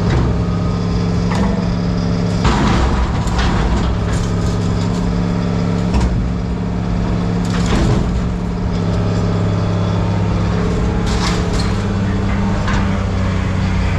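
A heavy machine's engine running steadily, with scattered cracks and clanks of scrap metal being handled, the sharpest a few seconds in and again near the middle.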